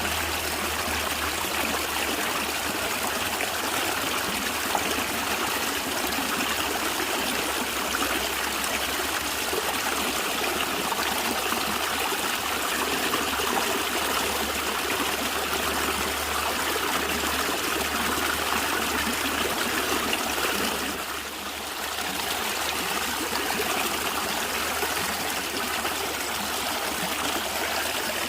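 A natural stream gurgling and trickling, a steady rush of running water with a brief dip in level about three-quarters of the way through.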